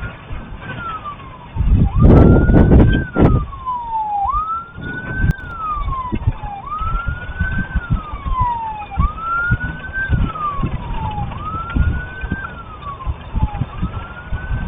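Emergency vehicle siren wailing, each cycle rising quickly and then falling slowly, repeating about every two and a half seconds. Under it a low rumbling buffeting comes and goes, loudest about two to three seconds in.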